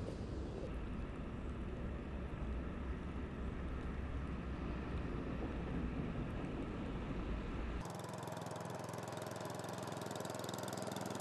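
A steady, low, engine-like rumble. About eight seconds in it cuts abruptly to a thinner, hissing background.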